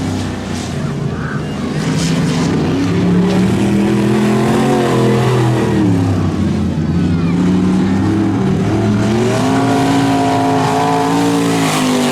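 Truck engines revving hard, their pitch repeatedly rising and falling as the throttle is worked, with more than one engine audible at times.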